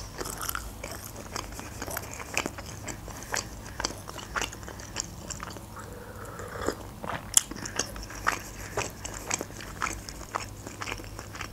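Close-miked chewing of food, with many small clicks and crunches, and a sip from a paper drink cup about six seconds in.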